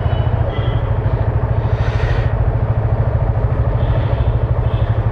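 Yamaha FZ25's 250cc single-cylinder engine running steadily on the move, a low, evenly pulsing rumble.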